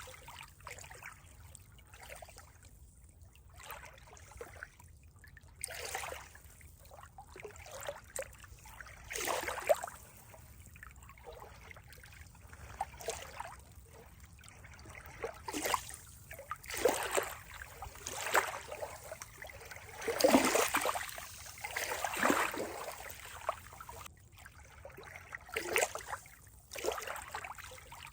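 Water trickling and gurgling, with irregular louder splashing swells every second or two.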